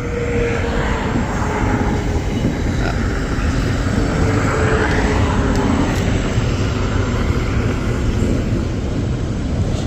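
A steady, loud roar of vehicle noise, with a faint hum that slowly falls in pitch.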